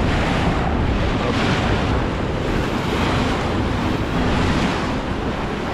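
Steady wind buffeting the microphone over the wash of sea waves around a boat.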